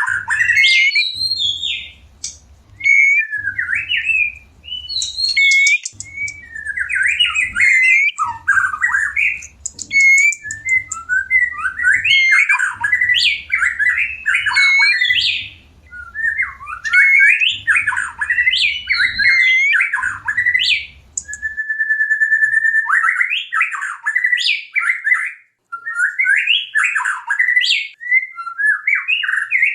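White-rumped shama singing a loud, rapid run of varied whistles and trills, with one long steady whistle a little after the middle.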